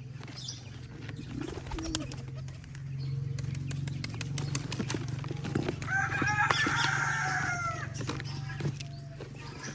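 Birds flapping and knocking about in a homemade trap, a run of sharp clicks and knocks. A long bird call with several pitches comes about six seconds in, over a steady low hum.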